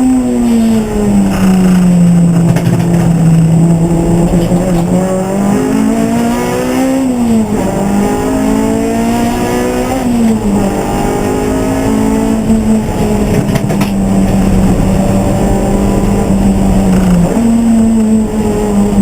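Race car engine running hard during a race, its note holding steady for stretches and dipping and climbing in pitch several times.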